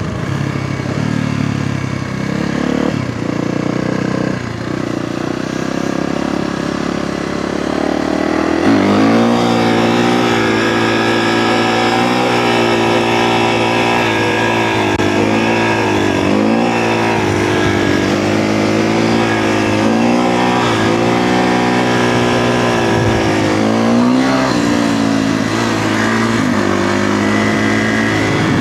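Kawasaki KX450F dirt bike's single-cylinder four-stroke engine running under way. For about the first eight seconds it runs fairly steadily. It then pulls harder, with the revs rising and falling again and again as the throttle is worked.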